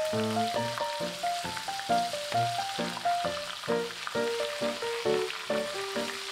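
Shrimp deep-frying in hot oil, a steady sizzle, under background music with a quick melody of short notes.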